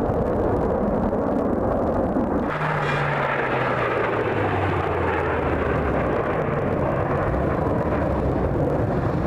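Airplane engine noise during a flypast, growing brighter about two and a half seconds in, then the engine tone sliding lower in pitch as the plane passes and moves away.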